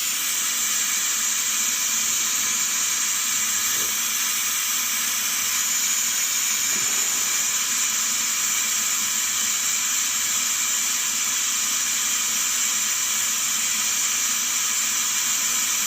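A steady stream of milky engine oil, contaminated with coolant, pouring from the Cat skid steer's engine drain into a drain pan, making an even splashing hiss.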